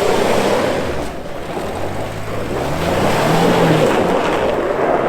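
Jeep engine running under load and revving up, its pitch rising about two and a half seconds in, under a loud steady rushing noise.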